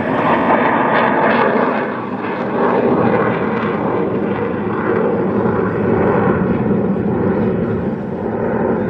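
Jet noise from Blue Angels F/A-18 Super Hornets, each with two turbofan engines, flying in echelon formation. It is a steady, loud rushing sound that swells and eases slightly.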